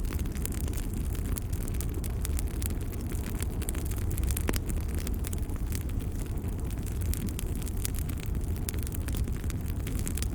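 Wood fire burning, with a steady low rumble and frequent small sharp crackles and pops.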